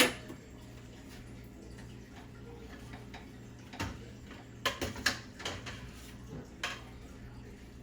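Kitchen cookware and utensils being handled: a sharp clink right at the start, then a few irregular light clicks and knocks, over a steady low hum.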